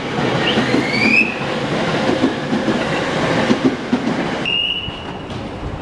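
Electric commuter train moving along the platform, with a steady rumble and rail clatter. Short rising high squeals come about a second in, and a brief steady high squeal comes near the end.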